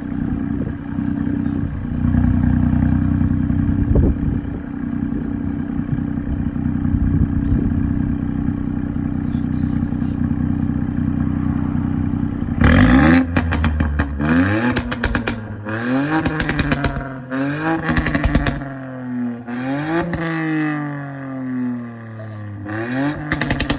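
Ford ST's engine idling steadily through its twin exhaust. About halfway in, it is revved in a quick series of about half a dozen blips, rising and falling, with popping and crackling from the exhaust as the revs drop.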